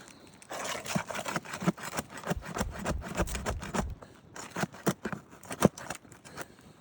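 A roof snake shingle-removal tool scraping and prying under an asphalt shingle to work a roofing nail loose, in a quick irregular run of scrapes and clicks, with a few sharper snaps around the middle.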